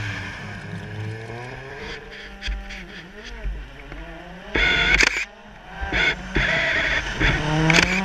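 Rally car engine revving up and down as it drives a stage, its pitch rising and dropping through gear changes, with several loud short blasts in the second half.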